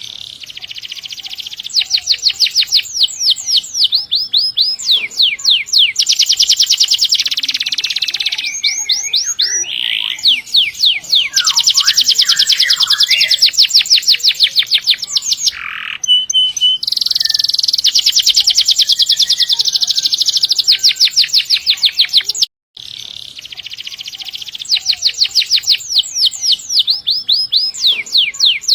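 Domestic canary singing long rolls: very fast repeated high notes strung into runs of several seconds, broken by short varied phrases. The song cuts out for an instant about two-thirds of the way in, then carries on.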